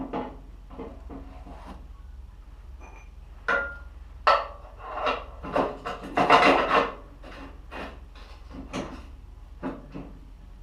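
Hands working with parts and tools: a string of irregular knocks, clunks and scraping or rubbing, busiest about midway, over a low steady hum.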